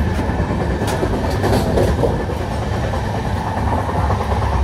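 Indian Railways passenger coach running along the track, heard from the vestibule between coaches: a steady, loud low rumble of wheels and coach body, with a few sharp clicks and rattles about a second in.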